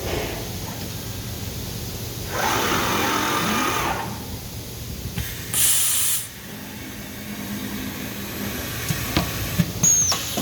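CNC woodworking machine running over a steady hum, with a louder grinding stretch about a quarter of the way in and a short, sharp hiss of air near the middle. A few clicks follow near the end.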